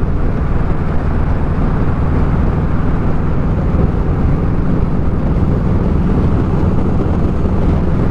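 Motorcycle riding at a steady cruising speed: a constant engine drone under steady wind noise.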